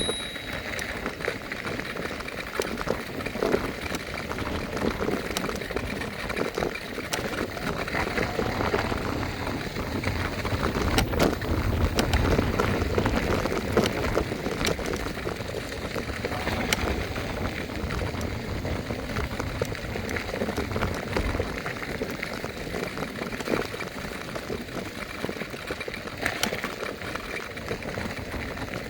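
Riding noise from an electric scooter: a steady rush of tyre and wind noise with many small rattles and clicks, and heavier wind rumble on the microphone around the middle.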